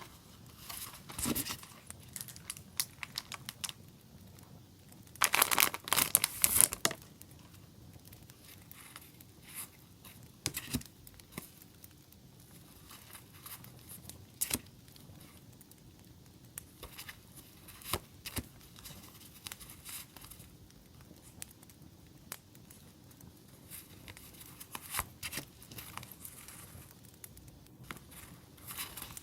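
Paper and plastic sticker packaging being handled, rustling and crinkling, with a loud stretch of crinkling about five to seven seconds in. Faint scattered crackles from a campfire sound track lie underneath.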